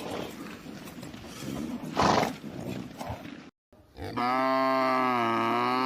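A rough, noisy animal call, loudest about two seconds in, then a brief cut to silence and a long, steady cow moo starting about four seconds in.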